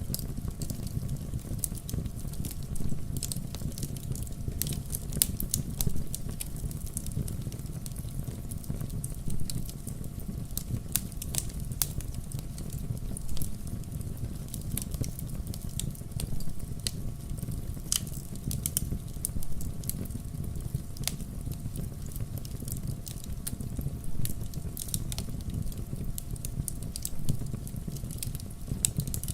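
Wood logs burning in a fireplace: a low steady rumble of flames with irregular sharp crackles and pops.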